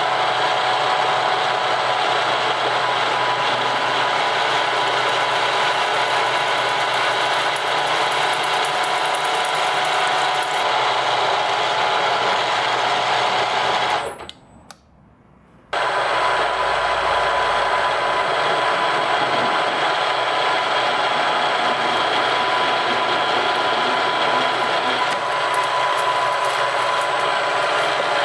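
Stationary drill running and drilling holes in a thick aluminium bar: a steady motor sound with several fixed tones. It cuts out abruptly about halfway through and comes back about a second and a half later.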